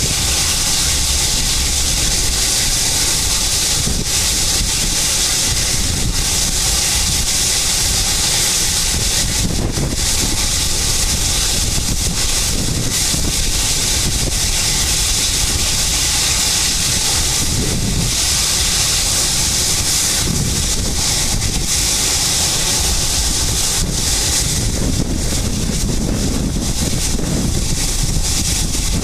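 Boeing 757's twin jet engines running at high power for takeoff, a steady loud hiss over a low rumble, with blast and wind buffeting the microphone.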